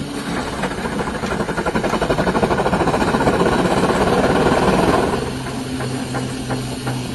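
Steam engine running with a rapid, even beat, growing louder over the first few seconds. It eases about five seconds in, when a low steady hum comes in.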